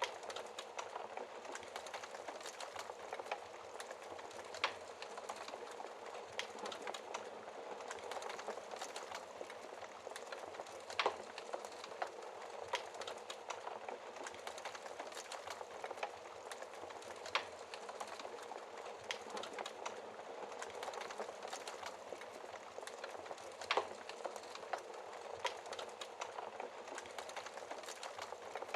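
Fire burning behind a glass fireplace shield: a steady hiss with many small crackles and a sharper pop about every six seconds.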